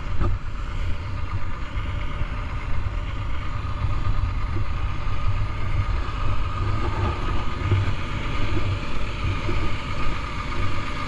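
Truck engine running steadily with a deep rumble.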